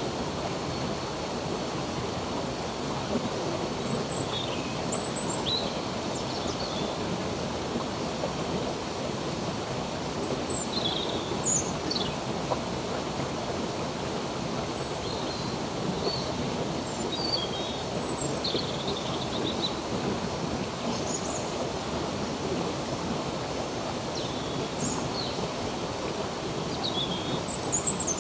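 Stream water running steadily, with small birds chirping now and then over it in short high calls, several of them falling in pitch.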